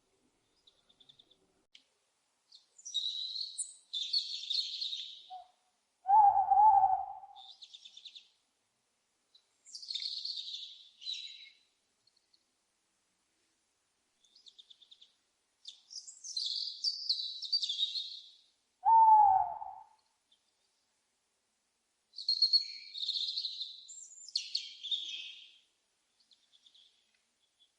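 An owl hooting twice, about thirteen seconds apart; each hoot is a single loud call of about a second. Between the hoots come repeated bursts of high, rapid chirping from small birds.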